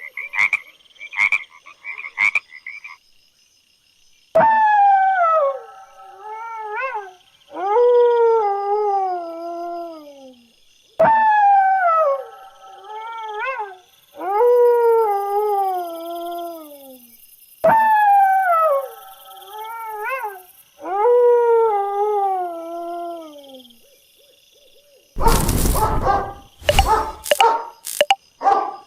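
A few short frog croaks, then a dog howling: long wavering cries that fall in pitch, coming in sets of two or three. Near the end come several loud dog barks.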